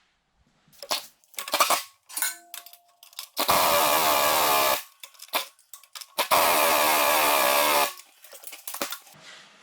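A handheld power tool runs in two bursts of about a second and a half each, with a wavering motor whine, amid clicks and knocks of handling metal parts.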